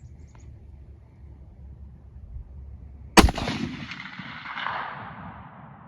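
A single rifle shot about three seconds in, followed by a long rolling echo that fades away over a couple of seconds.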